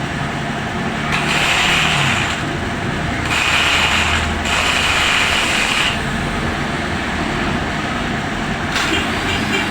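Ratchet wrench being cranked in three spells of about a second each, as on a scooter engine's top-end teardown.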